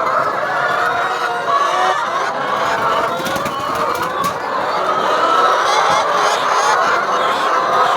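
A flock of chickens clucking and calling continuously, many birds at once with overlapping calls.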